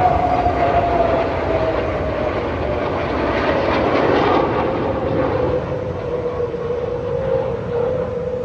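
Jet aircraft flying past: a steady engine roar with a whine that falls slowly in pitch as it goes by.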